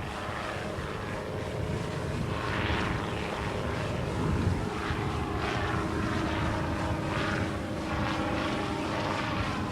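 An engine droning steadily at a constant pitch over a rushing of wind.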